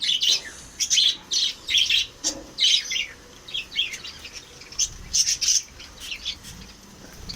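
Lovebirds chirping: short, high-pitched chirps in quick irregular clusters, several a second.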